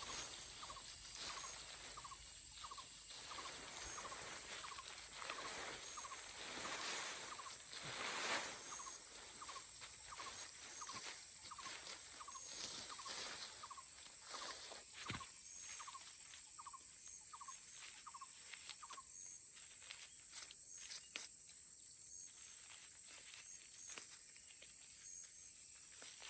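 Steady high-pitched insect drone from the surrounding vegetation, with an animal's short call repeated about twice a second that stops about three quarters of the way through. A few rustling swishes stand out in the first half.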